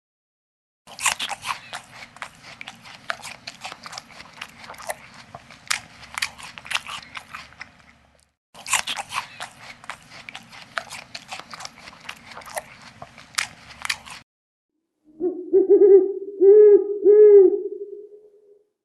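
A dense crackling, crunching noise in two stretches, the first about seven seconds and the second about five, followed near the end by an owl hooting: one low held hoot with three pulses in it.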